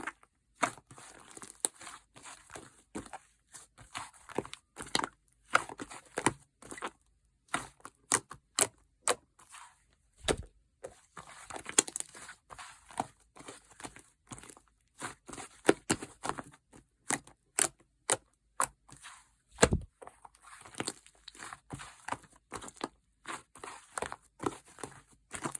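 Hands squishing and poking a sticky slime, giving quick irregular clicks and pops in clusters with short pauses between them.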